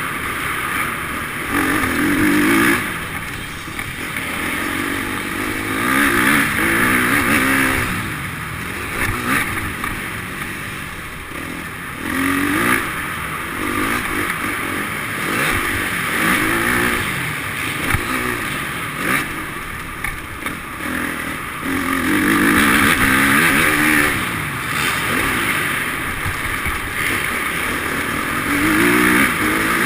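Motocross bike engines revving up and down as they ride the track, the pitch rising and falling in repeated surges every few seconds.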